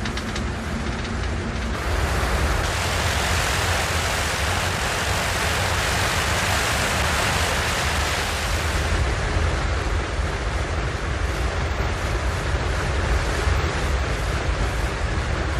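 The four Wright R-3350 radial engines of a B-29 Superfortress running together with propellers turning, a deep steady rumble under a heavy rush of propeller wash. It gets louder about two seconds in, and the rushing is brightest for the next several seconds.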